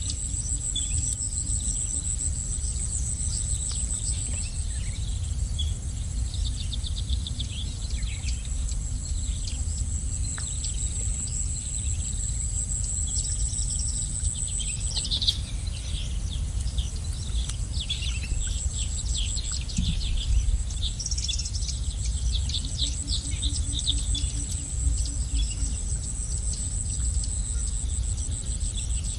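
Small birds chirping in many quick, repeated calls, over a steady high-pitched insect drone that drops out for a few seconds midway, with a low rumble of background noise underneath.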